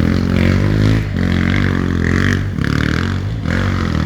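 Enduro motorcycle engine running under load, its revs dropping and climbing again a few times as it rides along.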